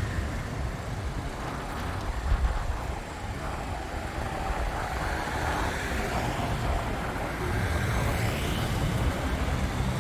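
Road traffic on a main road: cars driving past with a steady low rumble of engines and tyres, a little louder in the second half.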